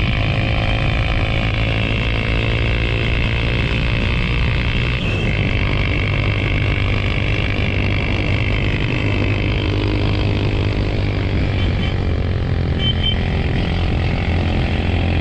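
Motorcycle engine running steadily on the move, a continuous low hum with no breaks or changes in pace.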